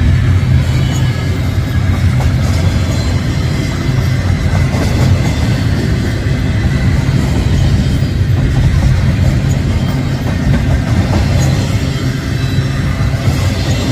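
Double-stack container cars of a freight train rolling past: a steady rumble of steel wheels on rail with faint clicks of wheels over the joints.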